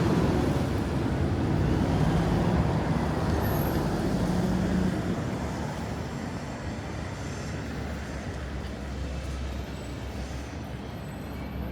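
City street traffic: a heavy vehicle's engine drones and fades away about five seconds in, leaving a steady hiss of passing traffic.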